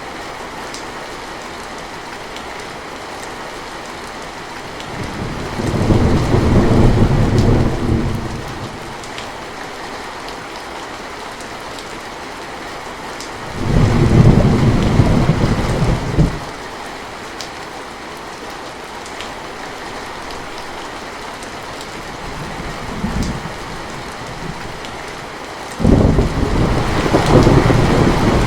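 Steady rain with rolls of thunder: loud low rumbles swell in about five seconds in, again at about fourteen seconds, starting suddenly, and once more near the end, starting suddenly, with a brief fainter rumble in between.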